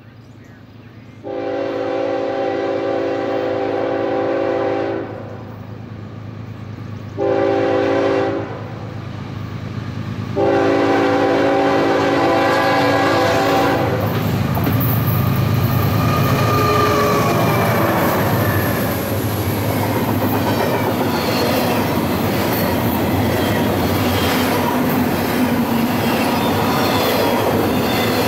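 Norfolk Southern ES44AC diesel locomotive's multi-note air horn sounding three blasts: long, short, long. Then the locomotives pass close by with a loud engine rumble, and double-stack intermodal well cars roll past with a steady clatter and clicking of wheels over the rail.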